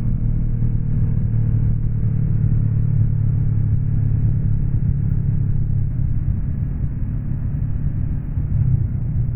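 Honda NX 500's parallel-twin engine running at steady revs under way, a low, even engine hum with road and wind noise.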